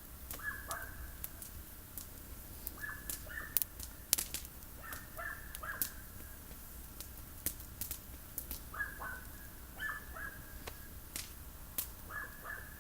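Campfire of olive prunings crackling, with irregular sharp pops and snaps. Short bird calls come through in quick clusters of two or three, each note dropping in pitch, about every two to three seconds.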